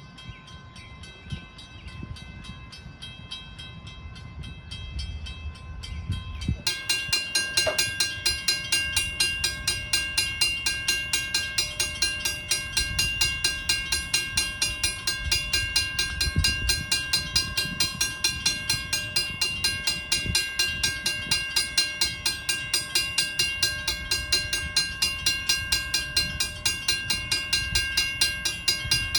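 Passenger train hauled by a 4-4-0 steam locomotive: quiet at first, then about seven seconds in a loud, steady beat of about four to five pulses a second starts suddenly and keeps on, with a few steady tones held under it.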